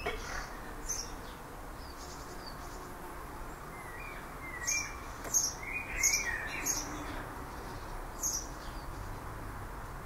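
Small birds chirping, short high calls coming in scattered bursts with several close together in the middle, over a steady faint outdoor background hiss.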